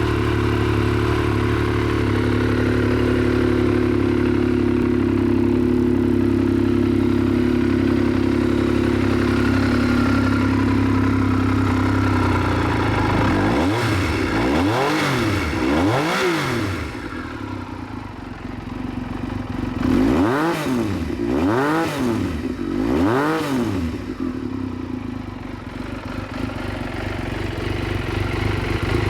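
1999 Triumph Daytona 955i's three-cylinder engine idling steadily, then blipped twice about halfway through and three more times a few seconds later, each rev rising and falling back to idle.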